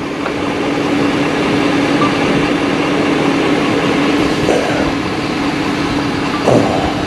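Fish-stocking truck running with a steady hum over a constant rush of noise.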